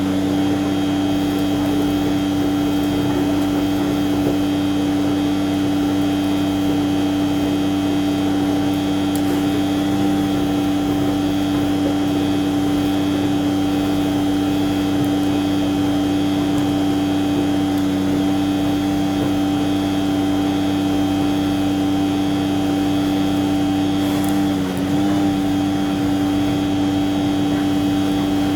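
Heavy tanker truck's engine running at a steady speed, a constant droning hum with a brief dip in pitch about 25 seconds in.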